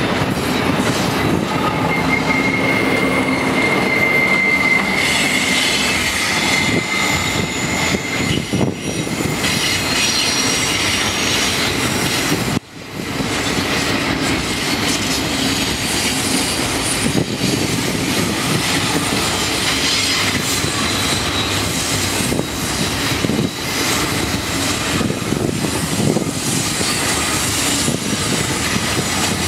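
Double-stack intermodal well cars rolling past steadily, their wheels rumbling on the rails with clicking over the joints. A thin, high wheel squeal rises in about two seconds in and fades after five. The sound cuts out for a split second about a third of the way through.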